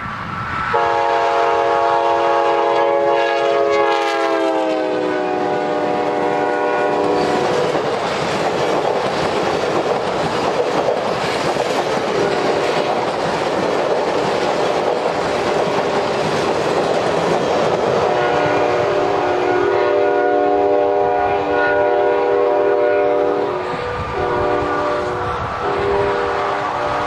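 A diesel locomotive's air horn sounds a chord as the train passes, its pitch dropping as the locomotive goes by. The passenger cars then roll past with rumbling wheels clicking over the rail joints, and the horn sounds again, lower, as the receding train blows for the crossing ahead.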